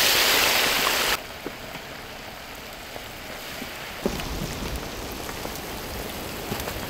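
Marinated chicken frying in hot sesame oil, a loud sizzle that drops suddenly about a second in to a quieter, steady sizzle with scattered small crackles.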